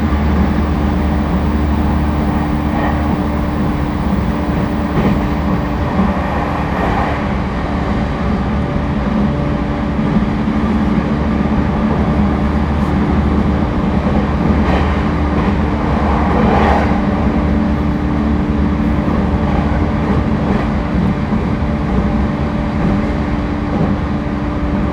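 Inside a JR East E231-1000 series commuter train car running between stations: a steady rumble of wheels on rail with a constant low hum.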